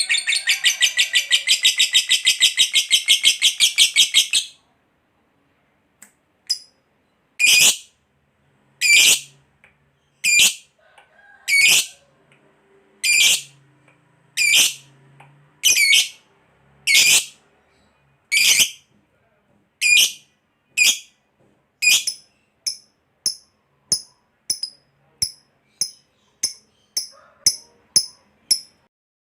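Lovebird giving its long, rapid chattering trill ("ngekek panjang"), which stops about four seconds in. After a short pause come single sharp, shrill chirps, at first about one every second and a half, then coming faster, about two a second, near the end.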